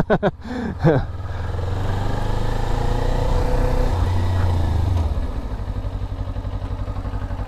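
Motorcycle engine running under steady throttle, growing slightly louder over a few seconds, then easing off about five seconds in to a lower, pulsing run as the rider slows down.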